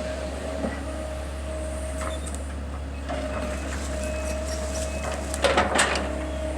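Engine of heavy truck-mounted machinery running steadily with a held tone. About five and a half seconds in comes a short, loud crackling burst.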